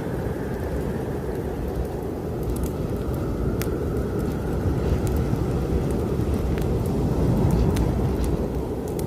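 Snowstorm wind blowing hard in a deep, steady roar that swells in a gust near the end. Scattered sharp crackles and pops of a wood fire in a fireplace sound over it.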